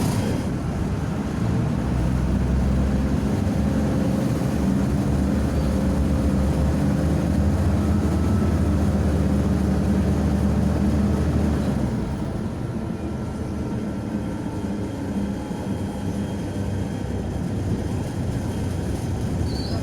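MAZ-105 articulated city bus under way, heard from inside the passenger cabin: the diesel engine drones under load with steady low tones, then eases off about twelve seconds in and runs on more quietly with road noise.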